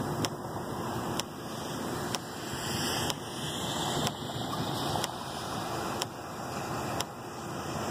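Steady rushing road noise of a moving car, with a sharp, evenly spaced tick about once a second.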